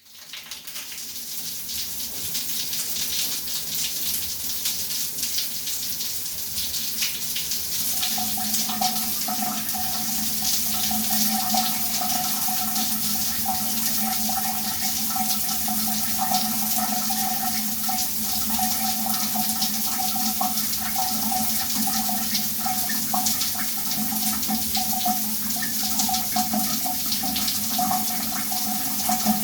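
Shower water running steadily, fading in from silence over the first couple of seconds. About eight seconds in, a steady low tone joins the spray and hangs under it.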